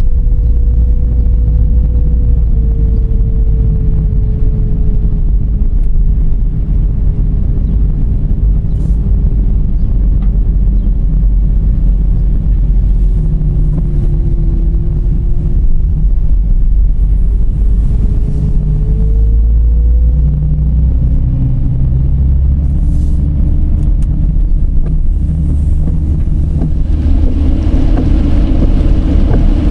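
Dodge Charger driving: a heavy, steady low rumble of road and wind noise with a whine that sinks slowly, then climbs again past the middle. A hiss builds near the end.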